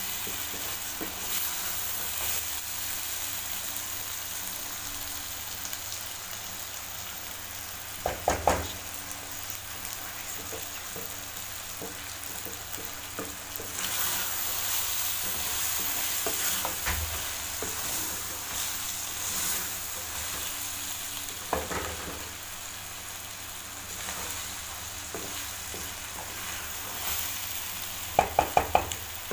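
Potato-and-egg curry sizzling steadily in a metal karahi over raised heat as it is stirred with a wooden spatula. A few quick knocks on the pan come about eight seconds in and again near the end.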